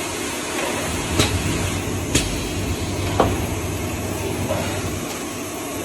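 Steady mechanical noise with a low hum, broken by three sharp clicks roughly a second apart in the first half.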